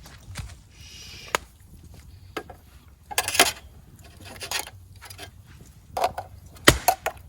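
Scattered sharp knocks and clicks of cookware and utensils being handled, with a short scraping rustle about three seconds in.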